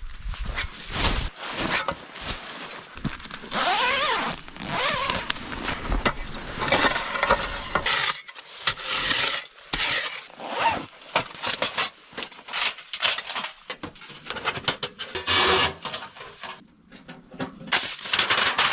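Irregular rubbing, scraping and squeaking from hands-on work, with a few short squeals about four seconds in.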